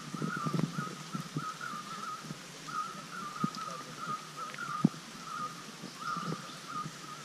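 A bird calling over and over in short warbled notes at one steady pitch, about two a second, over an even hiss. Scattered soft low knocks come and go, with a sharper one near the end.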